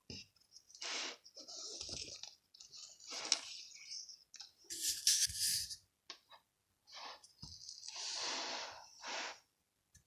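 Handling noise: irregular rustling and crinkling, like paper being moved and turned, with a few small clicks.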